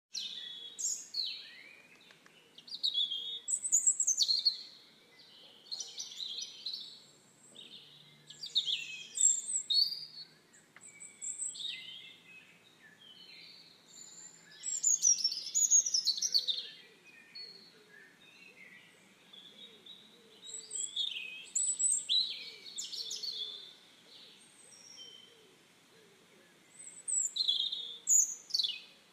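Songbirds chirping and singing: bursts of quick, high chirps, a second or two apart, with short gaps between.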